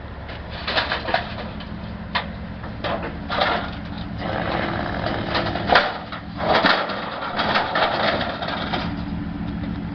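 A heavy vehicle engine running steadily, with a series of irregular knocks, scrapes and crunching noises over it; the sharpest knock comes a little past halfway.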